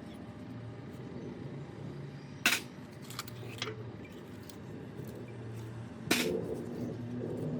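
Metal parts and tools clinking and knocking during hand work, with two sharp metallic knocks, about two and a half seconds in and again about six seconds in, and a few lighter clicks between them.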